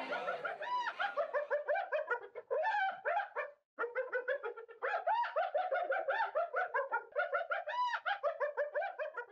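Spotted hyena laughing: a fast run of short, high, chattering giggles, about five a second, with a brief break a little under four seconds in.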